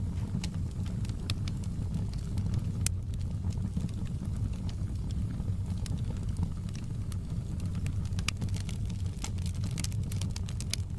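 Wood fire burning in a fireplace: a steady low rumble of flame with irregular sharp crackles and pops, one louder snap about three seconds in and quicker crackling near the end.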